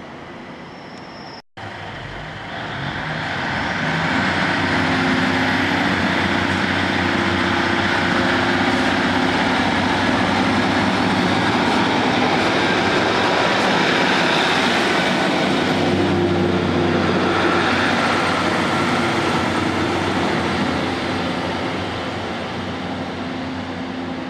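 Passenger train passing close by, its wheels running on the rails with a steady low hum beneath. The sound builds over a couple of seconds, stays loud, then slowly fades near the end.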